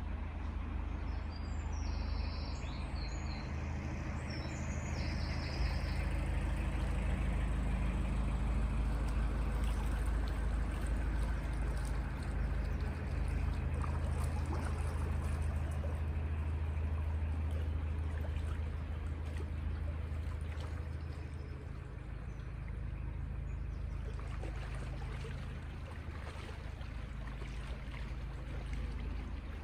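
Narrowboat's diesel engine running steadily under way, with water churning and trickling along the hull. The engine hum eases a little about 21 seconds in.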